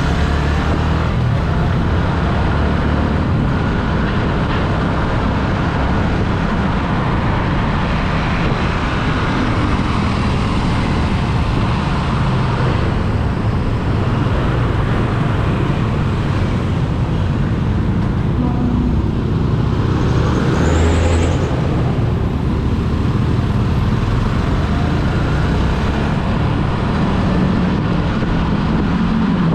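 Steady road and traffic noise from travelling along a busy road, with a vehicle passing close by about twenty seconds in.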